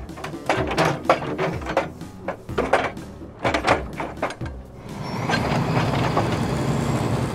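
A fast run of sharp mechanical knocks and clanks, giving way about five seconds in to a steady whirring noise.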